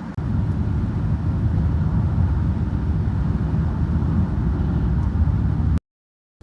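A loud, steady low rumble that cuts off abruptly about six seconds in.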